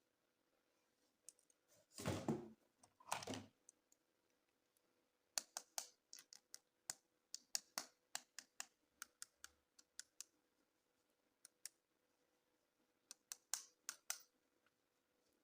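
Hands handling plastic toys and packaging up close: two short scuffing noises about two and three seconds in, then runs of quick, sharp, irregular plastic clicks and taps.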